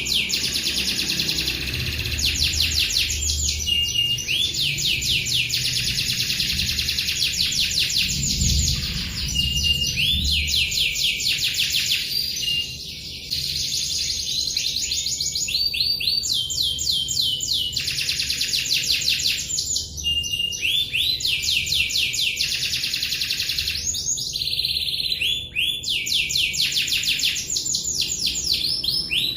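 Domestic canary singing long rolling trills, fast strings of high repeated notes almost without pause, broken only by a couple of brief gaps.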